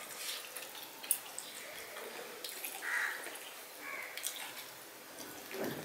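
A person eating rice and fish curry by hand: quiet wet chewing with scattered small mouth clicks and smacks.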